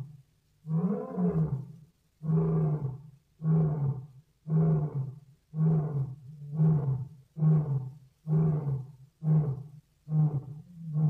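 African lion roaring: a series of deep grunting calls, roughly one a second, that grow shorter and come quicker toward the end, the closing grunts of a lion's roar sequence.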